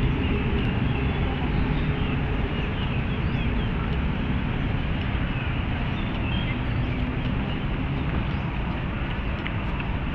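Steady rumble of city road traffic heard from within a park, with faint high chirps now and then above it.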